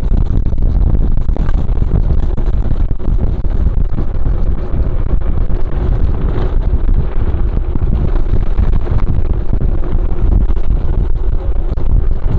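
Wind buffeting a moving mountain bike's camera microphone in a steady low rumble, with the bike and its tyres clattering continuously over a rough dirt trail on a fast descent.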